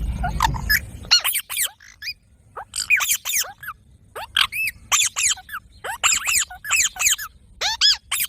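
Rose-ringed (Indian ringneck) parakeet giving rapid, shrill squawks in quick clusters of two to four, each call rising then falling in pitch. A low rumble runs under the first second.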